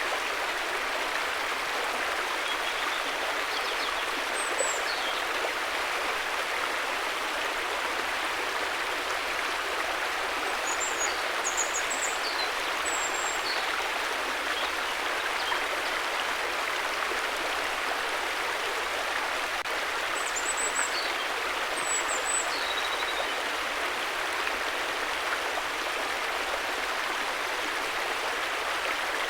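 River water flowing in a steady, even rush, with a few faint high chirps now and then.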